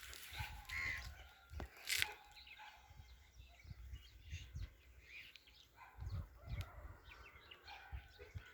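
Birds calling in short, scattered chirps, with one louder call about two seconds in, over a faint low rumble.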